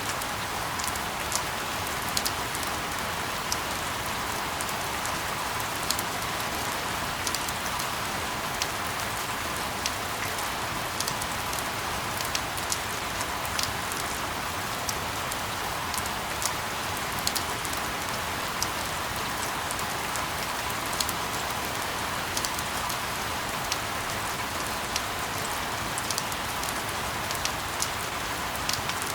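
Steady rain falling on a surface: an even hiss with many scattered, sharp drop ticks.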